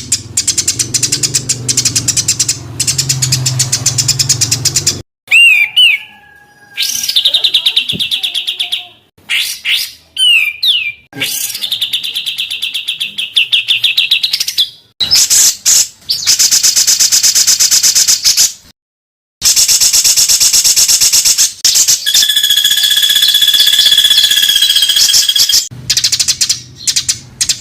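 Songbird song spliced from several recordings: rapid-fire, harsh rattling bursts and dense trills ('tembakan rapat dan kasar'), with a few curling whistled glides. The phrases start and stop abruptly. This is masteran tutor song meant to teach caged birds such as the white-rumped shama to copy it.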